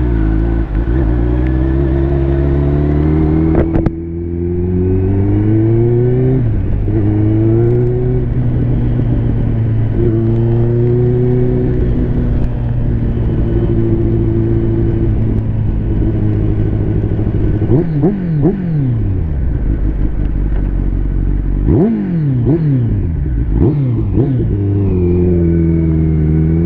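Liter-class sport bike's engine heard from on board while riding, its pitch rising and falling with throttle and gear changes, with a few quick drops in pitch about two-thirds of the way through.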